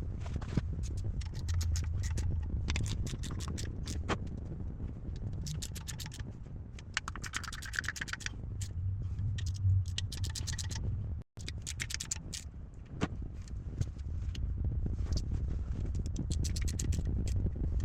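Hand-tool work on metal parts: scraping and handling noises, with quick runs of clicks, over a steady low hum.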